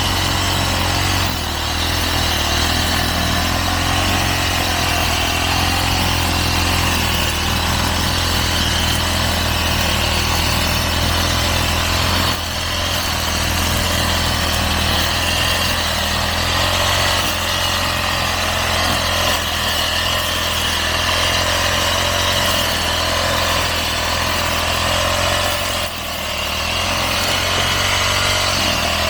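Engine-powered brush cutter running steadily at high speed while cutting grass, with its pitch and level dipping briefly three times.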